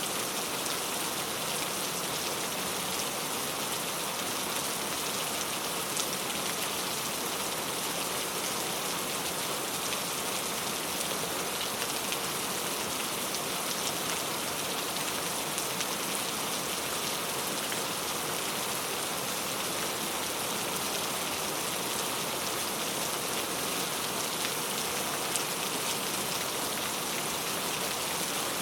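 Steady heavy rain falling, an even dense hiss with faint scattered drop ticks.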